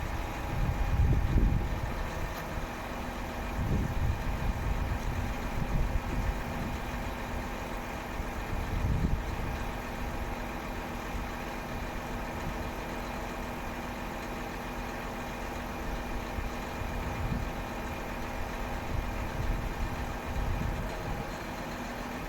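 Renault C 430 truck's diesel engine idling steadily, with wind buffeting the microphone now and then.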